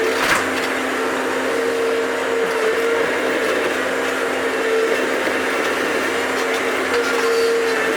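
Bobcat's engine running steadily under digging load, with a steady whine that swells and fades every second or so. A single sharp knock comes just after the start.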